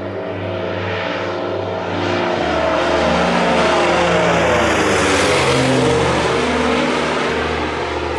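Jet airliner passing close by, its engine noise swelling to a peak about five seconds in and then easing. Trance music plays underneath.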